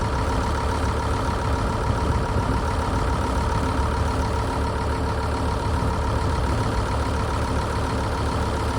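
SAME tractor engine idling steadily, with a deep low rumble and a constant even tone.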